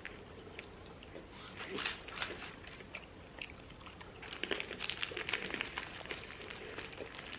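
Close-up chewing and crunching of food, in bursts of crisp clicks, the densest run about four to six seconds in.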